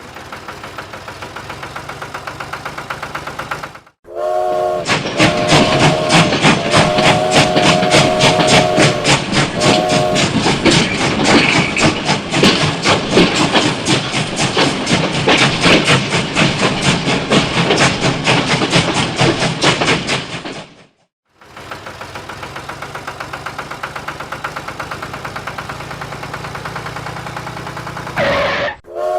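Train running with a fast rhythmic clatter, its chord horn sounding in four blasts of varying length a few seconds in and again near the end. The sound cuts out abruptly twice.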